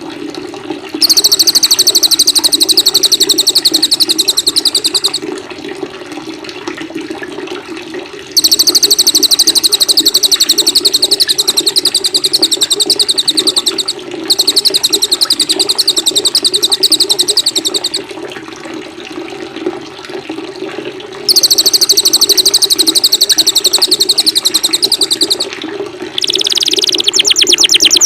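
Recorded songbird singing very rapid, high trills in loud bouts of four to six seconds with short pauses between, over a steady wash of running water; near the end a different, lower song comes in.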